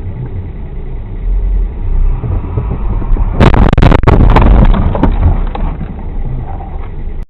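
Car driving with a steady low road and engine rumble, then a collision about three and a half seconds in: a cluster of loud impacts over about a second and a half, tapering off before the sound cuts off suddenly.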